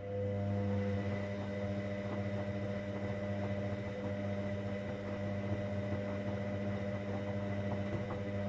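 Hoover Dynamic Next washing machine's drain pump switching on suddenly and running with a steady mains hum, with faint water gurgles.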